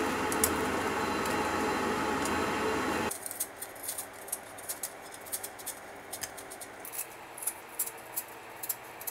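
French toast sizzling steadily in a frying pan, cutting off about three seconds in. Then a kitchen knife peels a crisp Japanese pear (nashi): faint, irregular scrapes and ticks.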